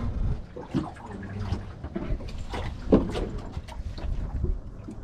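Wind buffeting the microphone and water lapping around a small fishing boat, with a few light knocks and handling noises.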